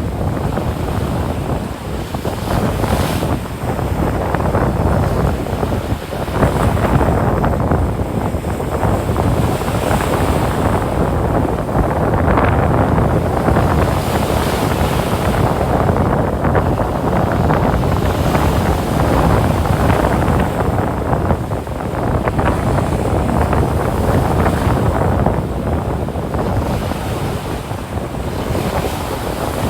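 Ocean surf breaking and washing up on a sandy beach, swelling and easing every few seconds, with wind rumbling on the microphone.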